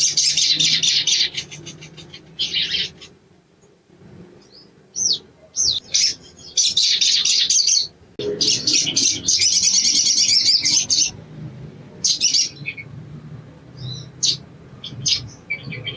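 Sogon (little spiderhunter) calling in bursts of rapid, high-pitched chattering, several seconds long and separated by short pauses. Shorter, separate chips follow near the end. This is a lure recording meant to set captive sogon singing.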